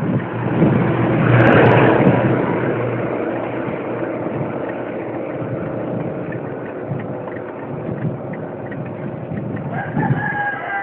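Motor vehicle passing close, loudest about a second and a half in, then a steady engine hum from road traffic.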